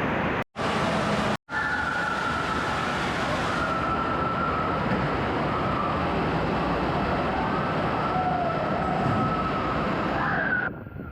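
Indoor waterpark din: a steady rush of noise from running water and echoing crowd, with a faint sustained high tone over it. The sound cuts out abruptly twice, briefly, about half a second and a second and a half in.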